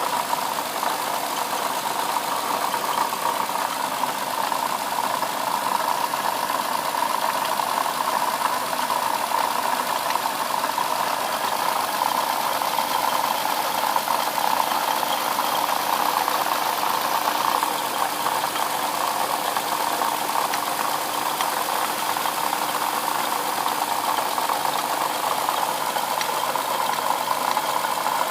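2007 Lexus IS350's 3.5-litre V6 idling with a steady rattling, knocking sound from the front side of the engine, which the owner wonders may be a bad water pump.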